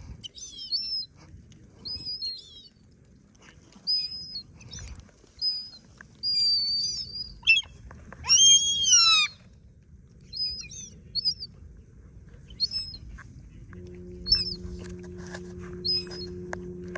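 Sparrows chirping, short high chirps repeated again and again. A louder, longer bird call comes about eight seconds in and falls in pitch at its end. A low steady hum starts near the end.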